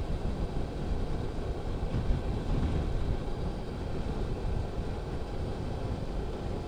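Electric motorcycle riding over a cobblestone road: an uneven rumble of tyres on the stones and rushing ride noise, with almost no motor sound.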